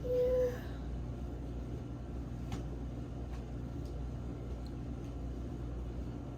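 Steady low hum of room background noise, with a short high voice at the very start and a few faint clicks.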